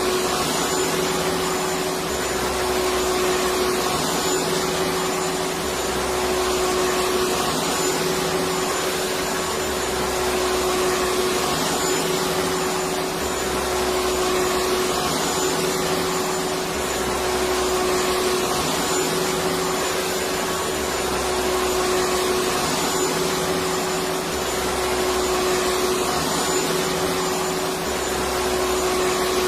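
Electric vacuum cleaner running steadily: a continuous dense whooshing hiss with a steady mid-pitched hum, and a low rumble that swells and fades about every three and a half seconds.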